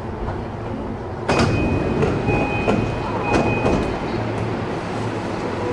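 Inside a JR East E233-5000 series electric commuter train: steady low running and equipment hum, a sudden clatter about a second in, and a few short, steady high tones after it.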